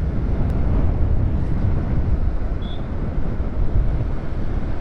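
Wind rushing over the microphone of a moving motorcycle, with a steady low rumble of engine and road. A short high peep sounds about two and a half seconds in.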